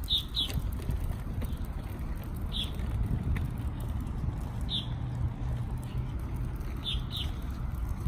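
A small bird chirping: short, high, falling notes, a quick pair near the start, single notes twice in the middle and another pair near the end, over a steady low outdoor rumble.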